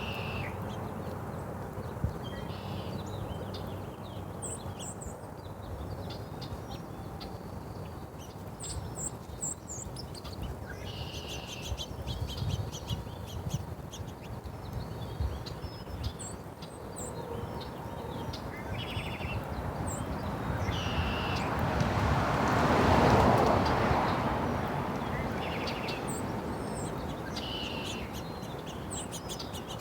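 Small birds chirping and calling in short, repeated bursts over a steady low background rumble. About two-thirds of the way through, a rushing noise swells up and fades away over several seconds.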